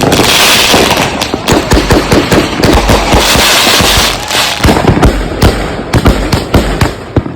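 Consumer firework cakes firing a rapid, irregular string of shots and aerial bursts, several a second, with two stretches of dense crackling hiss, one at the start and one about three seconds in.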